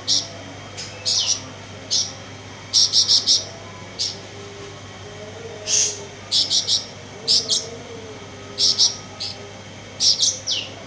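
Caged cucak cungkok singing in short bursts of sharp, high chirps, two to four notes at a time, repeated about every second; its song is filled in with 'konslet' material.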